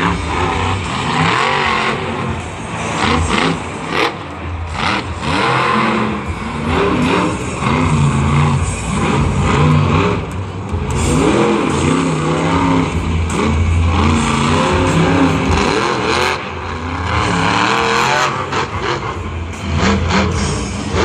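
Monster truck's supercharged V8 engine revving hard again and again, its pitch climbing and falling as the throttle opens and shuts. Scattered sharp knocks sound through it.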